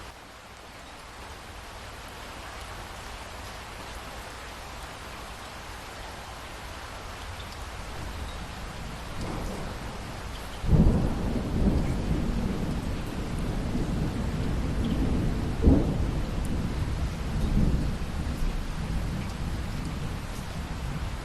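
Steady rain that slowly builds, then a thunderclap about halfway through that rolls on as a long low rumble, with a second sharp crack a few seconds later.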